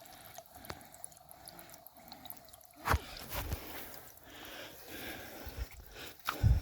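Heavy breathing from the exertion of a steep climb, over faint dripping of spring water, with a dull thump about three seconds in and a louder one near the end.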